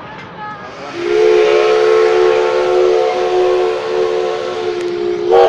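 Locomotive whistle sounding one long, loud blast, a steady chord of several tones with hiss over it. It starts about a second in and cuts off after about four seconds.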